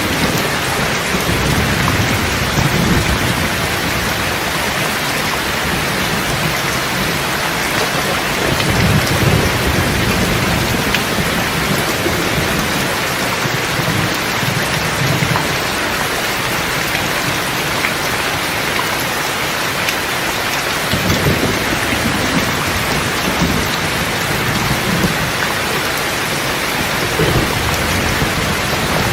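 Steady heavy rain falling, with low rolls of thunder rumbling in and out several times beneath it.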